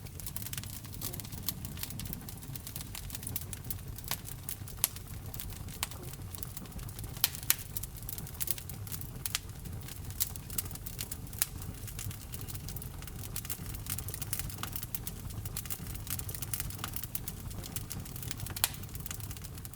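Wood fire burning in a fireplace: a low steady rumble of flames with irregular crackles and small pops, a few of them sharper and louder.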